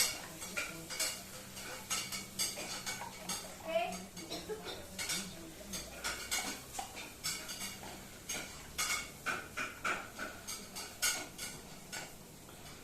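Irregular clinking and clattering of metal dishware, with many sharp knocks that thin out near the end.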